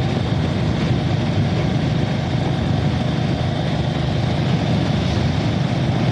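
Motorcycle on the move: a steady rush of engine and road noise with low wind rumble on the microphone.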